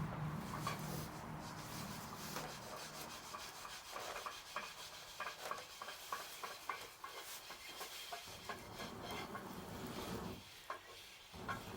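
Wood crackling and rubbing at a bonfire: scattered small clicks over a steady rustle.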